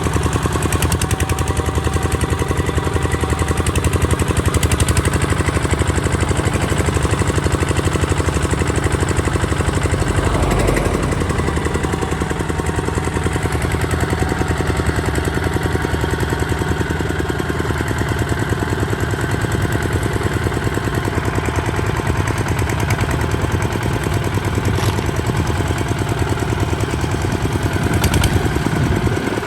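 Kubota ZT155 DI single-cylinder diesel engine running steadily, with a rapid, even chugging beat.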